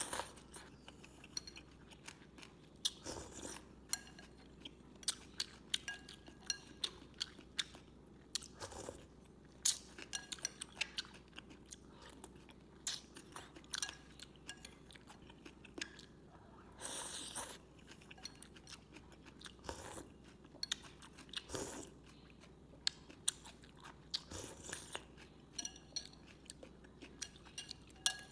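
Someone eating a bowl of Vietnamese rice noodles close to the microphone: chewing and crunching, with many short sharp clicks and a few longer noisy swells.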